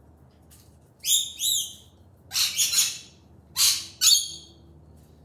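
Pet bird calling: a series of loud, high chirping calls, about five of them, the ones in the middle harsher and screechier.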